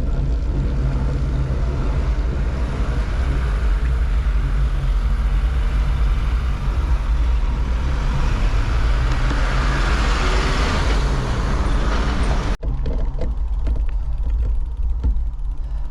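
Road traffic on a main road, with a heavy low rumble throughout. A vehicle passes close by, its noise swelling to a peak about ten seconds in and then fading. The sound cuts off abruptly near the end, and after the cut it is thinner, with a few light clicks.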